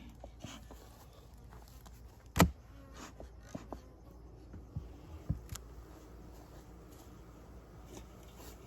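Honey bees buzzing faintly around an open hive, with one sharp knock about two and a half seconds in and a few lighter clicks and taps over the next few seconds as hive parts are handled.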